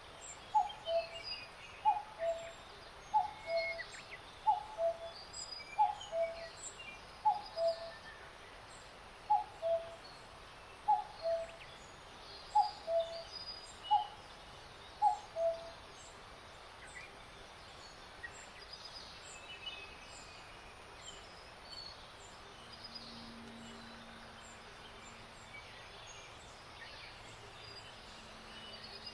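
Forest birdsong: a low two-note call, the first note higher, repeated steadily about every three quarters of a second, with higher chirps and trills around it. After about fifteen seconds the repeated call stops, leaving scattered chirps and, near the end, a faint low hum.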